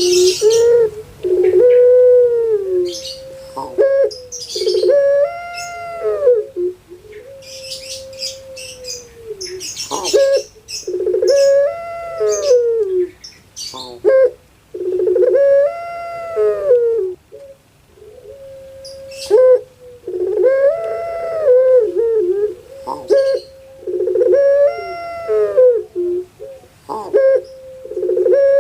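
Puter pelung dove (Barbary dove) cooing: a long, drawn-out call that rises and falls in pitch, repeated about every three to four seconds.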